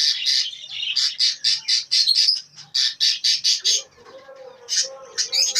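Caged small parrots, such as cockatiels, lovebirds and budgerigars, squawking in a rapid run of short, shrill, repeated calls, about four a second. Near the end it thins to a few scattered calls.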